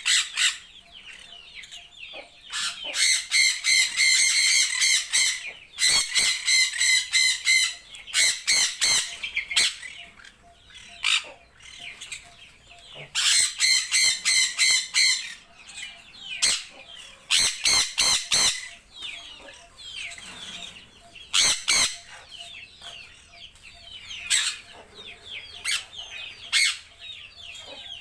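Birds calling: bursts of loud, harsh, rapidly repeated squawks, each burst lasting a few seconds, over steady fainter chirping.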